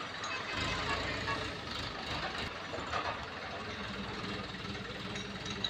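Heavy machinery running with a steady low engine rumble that comes in about half a second in, with a few scattered knocks and clanks over it.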